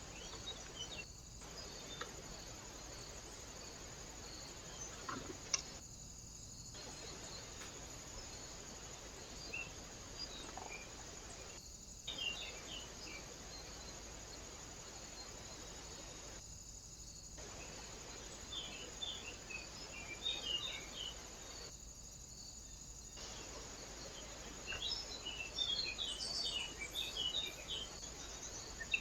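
Steady hiss from a trail camera's microphone with scattered short chirps of small birds, which grow busier over the last few seconds. The hiss cuts out completely several times for about a second.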